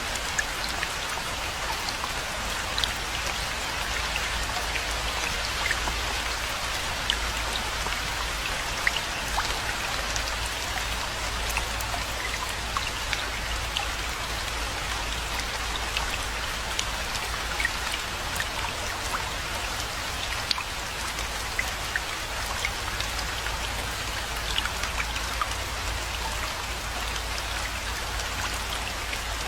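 Steady rainfall, an even hiss with many separate drops ticking close by, over a steady low rumble.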